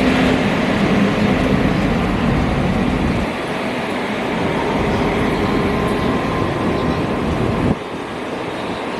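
Passenger train running along the track, a steady rumble and rail noise. The low rumble drops suddenly about three seconds in and again near the end.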